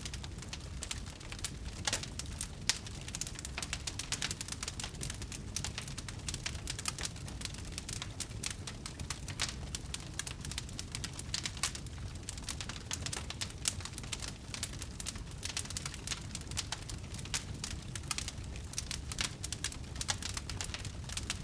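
Wood fire burning in a fireplace, with a steady low rumble of the flames and frequent small crackles and pops throughout.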